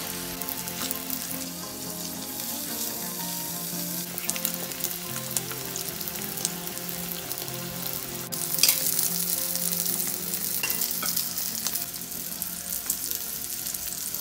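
Sausage rings and egg yolks sizzling in oil in a frying pan. The sizzling surges louder about eight seconds in as another yolk is slid into a ring from a spoon.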